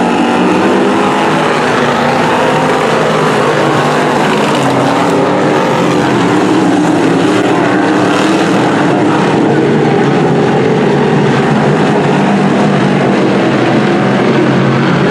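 A field of dirt-track Sportsman race cars racing, their V8 engines running together in a loud, steady, overlapping drone.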